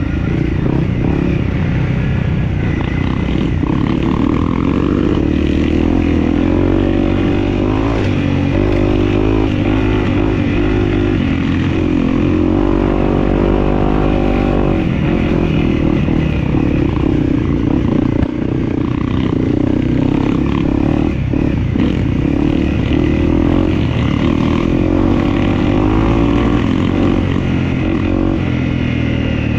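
Dirt bike engine running under way, its pitch rising and falling as the throttle opens and closes.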